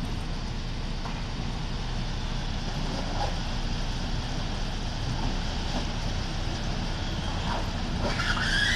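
Heavy railway construction machine running with a steady low engine rumble. Near the end a high, shrill squeal rises over it.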